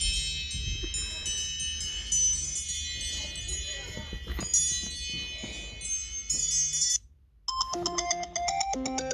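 iPhone ringtones playing: a chiming ringtone with many high notes stops about seven seconds in, and after a short pause a different ringtone starts, a quick repeating melody of short notes.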